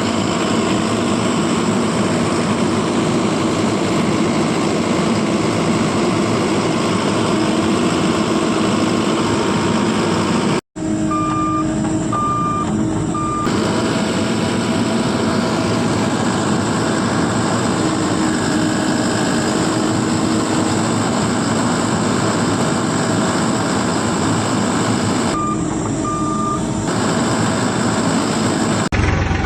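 Heavy construction vehicle's engine running steadily, with a reversing alarm beeping: three beeps just after a brief cut about eleven seconds in, and two more later on.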